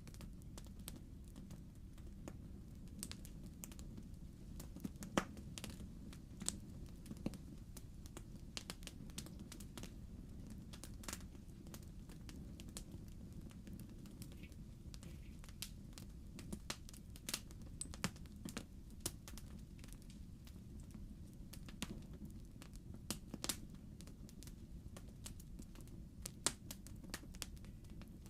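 Logs burning in a fireplace, crackling with irregular sharp pops and snaps over a steady low rumble of the fire.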